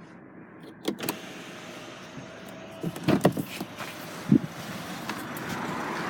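Handling sounds on a car: a couple of sharp clicks about a second in, then a cluster of louder knocks around three seconds and one more soon after, over a steady hiss.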